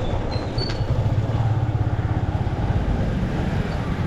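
Motorcycle engine running steadily at cruising speed, with a steady rush of road and wind noise.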